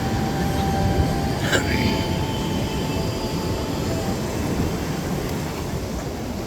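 Wind rumbling on the microphone over ocean surf. A faint steady tone runs through the first two seconds, and there is a single sharp click about a second and a half in.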